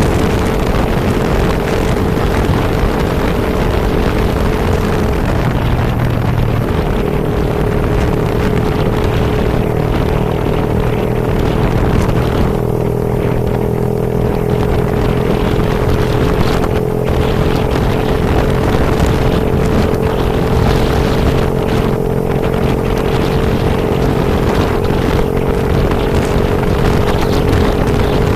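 Vehicle engine running steadily under heavy wind and rain noise on the microphone, with its note changing briefly about five seconds in.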